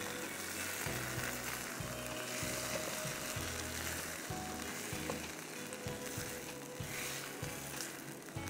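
Tadka kababs in sauce sizzling in a hot pan on the stove just switched off. A steady hiss that eases slightly toward the end.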